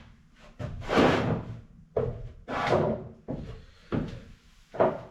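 A run of knocks and bangs, roughly one a second, each with a short ring after it; the loudest comes about a second in.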